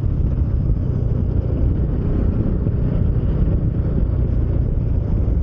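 Bajaj Dominar 400's single-cylinder engine running steadily while riding, heard with wind buffeting the microphone.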